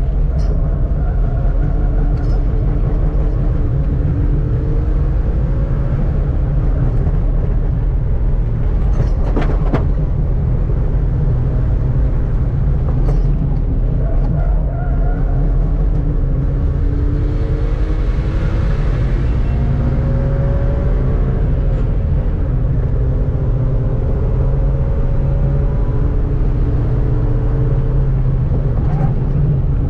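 Daihatsu Esse's three-cylinder engine heard from inside the car's cabin under hard acceleration on track. Its pitch climbs repeatedly and drops back at each gear change, over a heavy low rumble and road noise.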